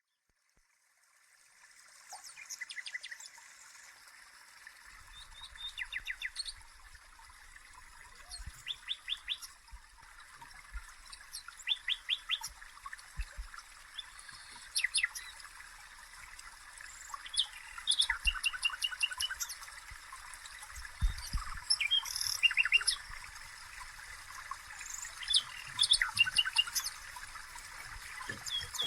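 Songbirds singing in short trilled phrases of rapid chirps, one every two to three seconds, over a steady hiss that fades in at the start. Faint low knocks come now and then.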